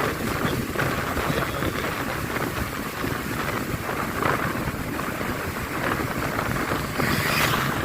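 Heavy floodwater rushing through open barrage gates: a steady, loud rush of water that swells louder near the end.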